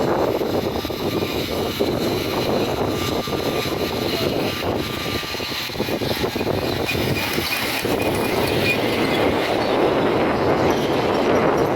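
Miniature railway train running along the track, its wheels clattering over the rails with faint squeal.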